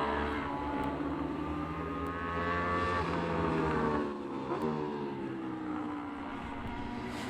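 Racing motorcycles' engines at high revs, the pitch climbing for about three seconds, then falling steadily as the bikes come off the throttle.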